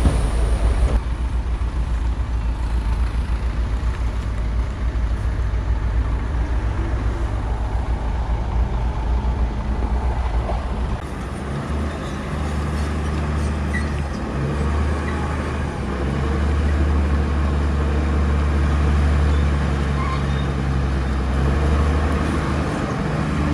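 Bulldozer's diesel engine running under load, a loud low drone whose note shifts about halfway through to a steadier hum.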